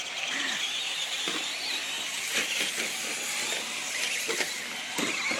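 Radio-controlled short-course trucks racing: a motor whine rises and falls in pitch, with a few sharp knocks.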